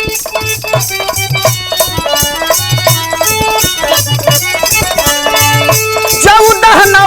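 Instrumental interlude of a Bhojpuri birha folk song: held melody notes over a steady drum beat and regular jingling percussion strokes. A singer's voice comes in near the end.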